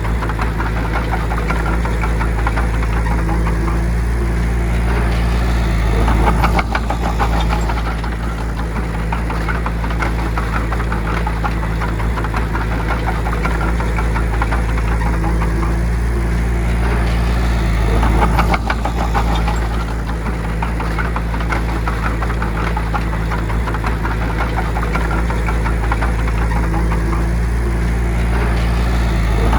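Bulldozer's diesel engine running steadily under load, swelling louder about every 11 to 12 seconds as it works.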